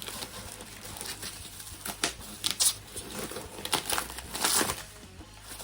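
Plastic packaging crinkling and tearing as it is pulled open by hand, in irregular rustles and short rips.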